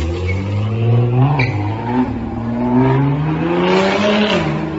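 Car engine accelerating hard, its pitch climbing steadily with a short dip about a second and a half in, then cutting off abruptly at the end.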